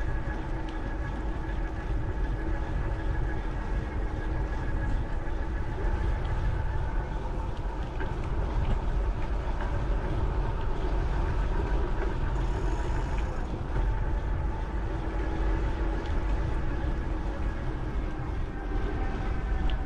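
Wind buffeting an action camera's microphone during a bicycle ride, a continuous heavy rumble over the rolling noise of the bike, with a steady hum running underneath.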